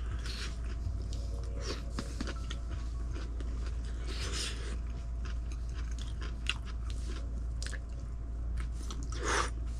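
A person eating a bowl of hot pot noodles close to the microphone: chewing and biting with small clicks, and a few short louder mouth noises about four and nine seconds in, over a steady low hum.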